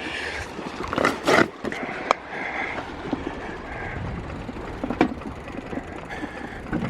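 Bicycle on the move, its freewheel ratchet ticking and its parts rattling, with a few sharp knocks: two close together about a second in, one at two seconds and one at five seconds.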